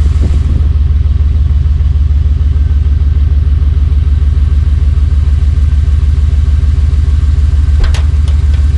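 Off-road mud buggy's engine idling steadily with a fast, even low pulse, warming up after a cold start. A short click is heard near the end.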